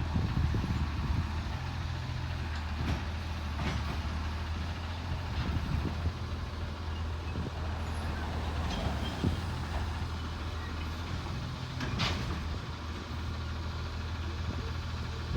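Recycling truck's engine running steadily with a low hum, with a few light knocks and one brief, sharper sound about twelve seconds in.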